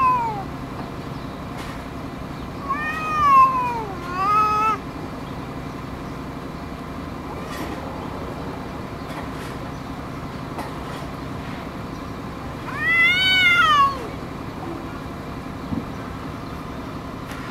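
Cats trading long, drawn-out meows, each rising and then falling in pitch: two close together about three and four seconds in, another around thirteen seconds, with a steady low hum underneath.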